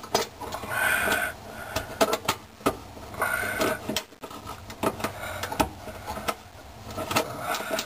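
Metal garbage-disposal snap ring being stretched and worked around the sink flange's mounting ring: irregular metallic clicks and scrapes, with two short squeaks about a second in and just past three seconds.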